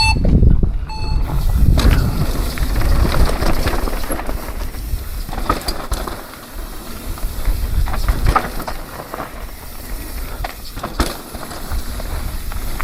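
Two more beeps of a race start timer, then a full-suspension enduro mountain bike descending a rough trail: wind buffeting the bike-mounted microphone, tyres on dirt and frequent knocks and rattles from the bike over rough ground.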